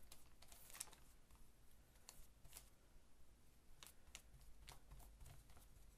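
Near silence broken by faint, scattered light taps and scrapes, about a dozen, from a brush and paper being handled while matte medium is brushed onto collage paper.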